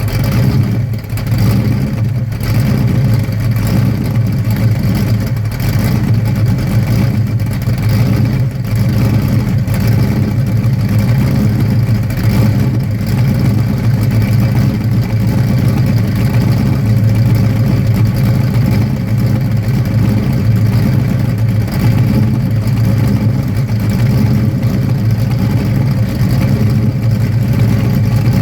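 Ford 351 Cleveland V8 in a 1967 Mustang running steadily through Hooker headers, an X-pipe and a 2.5-inch Pypes race exhaust, a loud, even exhaust note with no big revs.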